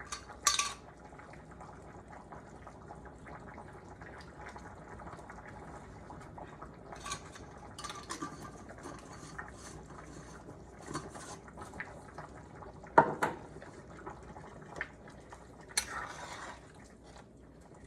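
A spoon stirring and scraping in a pot of simmering soup, with scattered clinks and knocks against the pot. The loudest knock comes about 13 seconds in, over a steady low bubbling.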